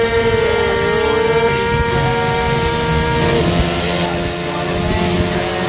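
Radio-controlled model airplane engine running, a steady high-pitched drone whose pitch wavers slightly and shifts about three seconds in.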